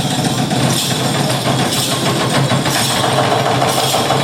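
A machine running steadily and loudly with a fast, even chatter, like a motor-driven workshop tool.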